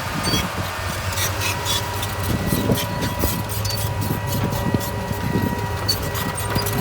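Heavy earthmoving machine's engine running steadily, with irregular clanks and crunches of gravel and stone.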